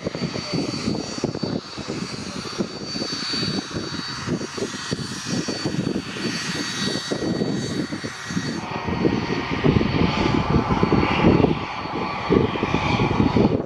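Aircraft engine running with a steady high whine, its sound changing about nine seconds in. Strong wind buffets the microphone throughout.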